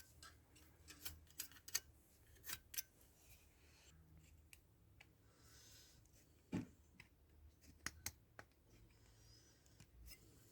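Faint, scattered snips and clicks of small hand-tool work, about a dozen spread over ten seconds, the loudest about six and a half seconds in.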